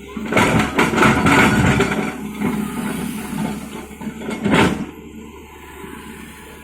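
JCB 3DX backhoe loader at work, its diesel engine running under two loud, rattling bursts: one from about half a second in lasting over a second, and a shorter one about four and a half seconds in.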